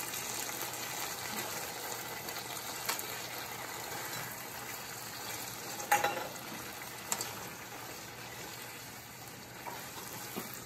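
Kung Pao chicken and vegetables sizzling in sauce in a saucepan while being stirred with a cooking spoon, with a few sharp knocks of the spoon against the pan, the loudest about six seconds in. The sizzle fades slightly.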